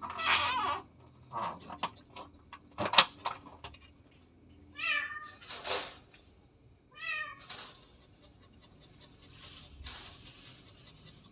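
Domestic cat close to giving birth meowing several times, with two clear falling meows a couple of seconds apart in the middle. A sharp knock about three seconds in is the loudest sound.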